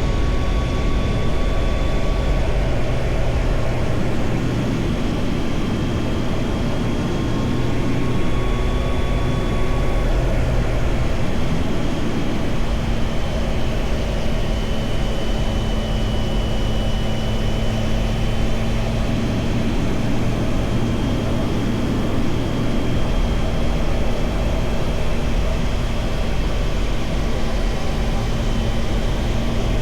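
Triumph Tiger Sport 660's three-cylinder engine running while the bike is ridden, under steady, heavy wind and road noise. The engine note changes about twelve seconds in, then holds steady.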